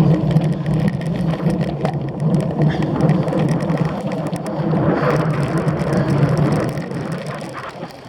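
A cyclocross bike being ridden hard: a steady rush of wind and tyre noise with scattered rattling clicks from the bike, easing off near the end.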